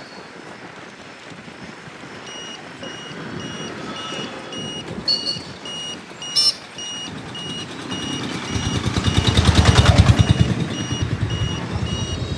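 Truck reversing alarm beeping steadily, about two beeps a second. A heavy vehicle engine rises to a loud, throbbing rumble about eight seconds in, then eases back.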